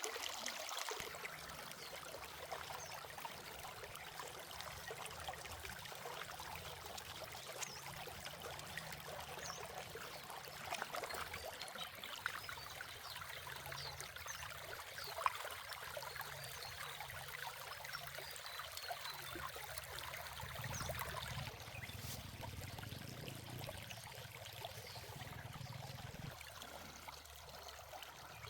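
Steady running, trickling water, with scattered small clicks and one sharper click about fifteen seconds in.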